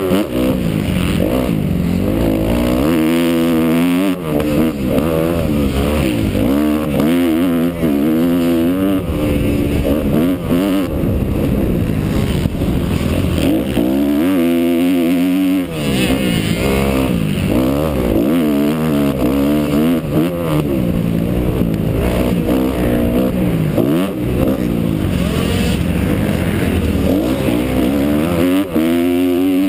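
Kawasaki KX250F four-stroke single-cylinder motocross engine revving hard and easing off again and again, its pitch climbing through the gears and falling between. About fourteen seconds in the throttle is off for a longer moment before it climbs again.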